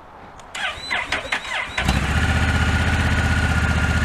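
Honda NT1100's parallel-twin engine being started: a short burst of starter cranking, then the engine catches just under two seconds in and settles into a steady idle.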